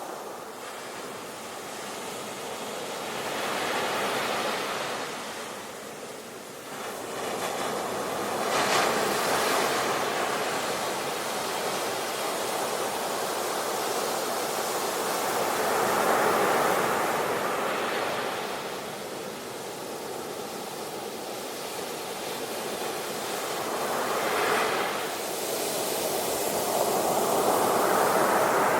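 Ocean waves breaking and washing on the shore, a continuous surf noise that swells and falls with each wave, about every several seconds.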